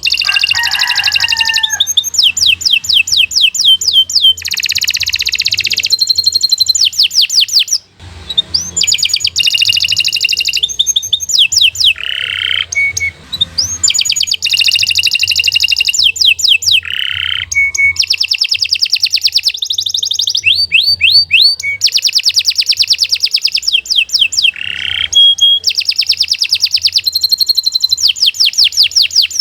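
Domestic canary singing a long, continuous song of fast repeated notes and rolling trills, with sweeping notes between phrases and a short break about eight seconds in.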